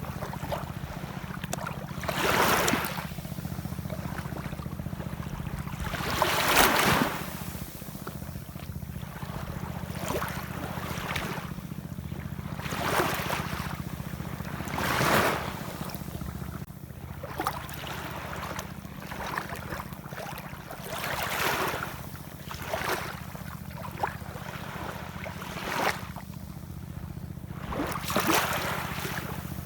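Ocean waves washing in, one surge every few seconds over a steady low rumble.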